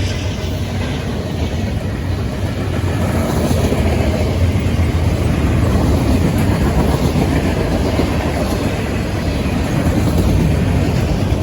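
Freight train rolling past, a steady loud rumble of railcar wheels on the rails.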